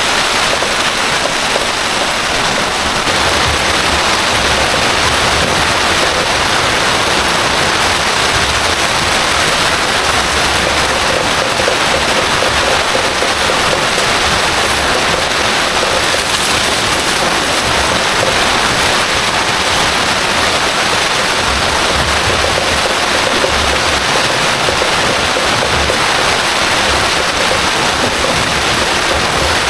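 Heavy rain falling steadily and loudly, mixed with the rush of flowing floodwater.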